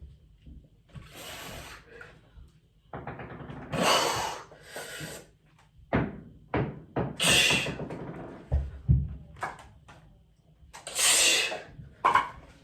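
A few sharp knocks and several short rustling hisses, like objects being handled and moved in a small room.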